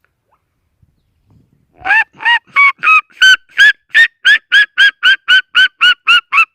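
Red-legged seriema giving its loud yelping call: a run of about sixteen sharp notes, roughly three a second and quickening slightly, starting about two seconds in, with the first few notes climbing in pitch.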